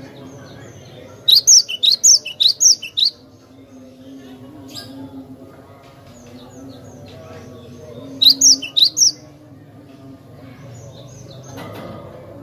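Cinereous tit (glatik batu) singing in two quick series of sharp, high chirps, the first about a second in and a shorter one around eight seconds in, over a low background murmur.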